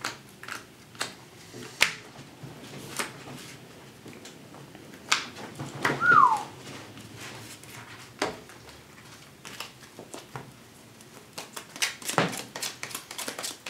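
Trading cards being handled on a table: irregular clicks and taps of cards being picked up and laid down, with a denser run of knocks near the end. About six seconds in a short whine falls in pitch.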